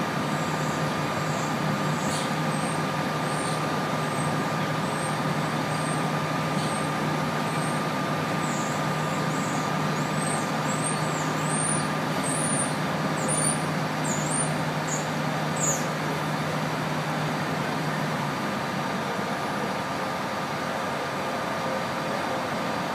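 Steady rumble of a CSX freight train of tank cars rolling past, mixed with a bus engine idling as a low steady hum that stops about 18 seconds in. A string of short high squeaks, roughly one a second, runs from about 2 to 16 seconds in.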